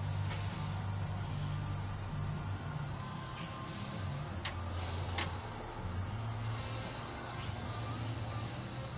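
Crickets chirping steadily over a low steady hum, with a couple of faint clicks around the middle.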